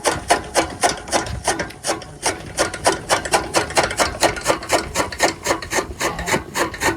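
Bull-driven chaff cutter running, its gearing and mechanism clicking in a rapid, even rhythm of about six clicks a second.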